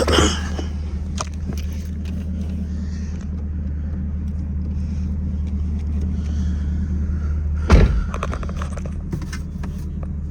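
V8 car engine idling steadily with a low, even rumble. Two thumps cut through it, one at the very start and a louder one about eight seconds in, followed by a few light clicks.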